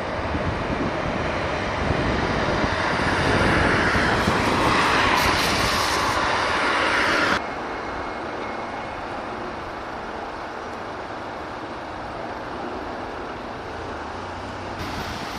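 Aircraft engine noise, loud and steady, rising to a peak for a few seconds. About halfway through it drops abruptly to a quieter, steadier engine sound.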